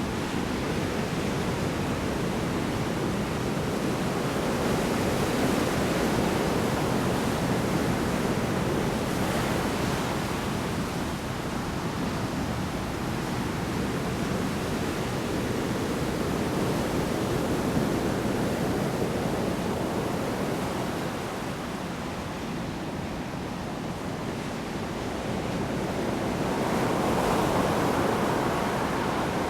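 Large storm waves breaking and rushing on the shore, a steady surf roar that swells and eases, with a wave surging up near the end.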